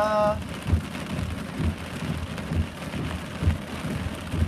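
Heavy rain falling steadily, with low thumps about once a second.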